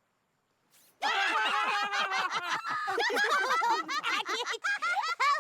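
A group of cartoon characters laughing together in several overlapping voices, starting about a second in after a short silence.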